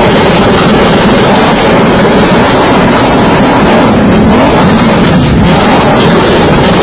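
Loud, steady vehicle noise, harsh and distorted, with no clear engine note rising or falling.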